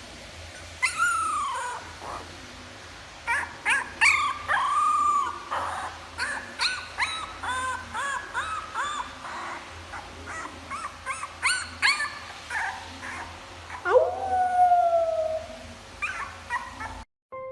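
A dog howling and yipping. There is a falling howl about a second in, then a run of short, arched yips and whines, then a long howl near the end that rises and then holds steady.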